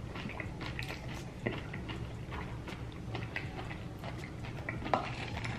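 Close-up eating of crunchy tacos: biting and chewing, heard as many small crackling clicks, with louder crunching bites about one and a half and five seconds in.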